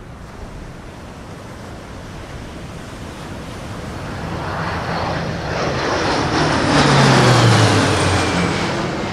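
Fighter jet flying past: the noise builds for several seconds, peaks about seven seconds in with its pitch sliding down as it passes, then begins to fade.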